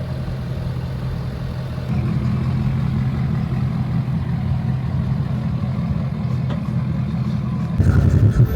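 Car engine running with a steady low rumble that grows louder and rougher near the end.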